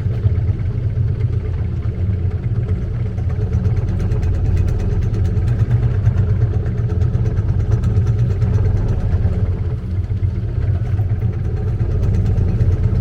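Long-tail boat engine running steadily: a low, even drone with a fast, regular clatter on top.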